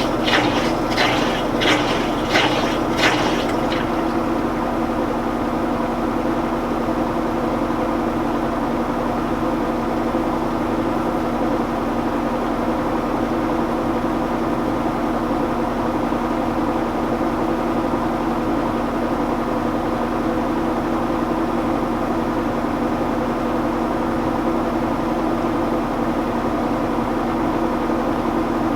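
Admiral belt-drive top-load washing machine in its high-speed spin: a steady motor and drive hum. For the first three seconds or so a rhythmic watery hiss comes about twice a second, then fades, leaving the even hum.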